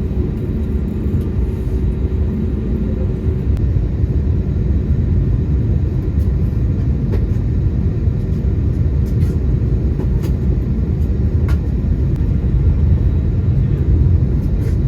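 Steady low rumble inside the cabin of an Airbus A320neo with its engines running, growing slightly louder toward the end, with a few faint ticks.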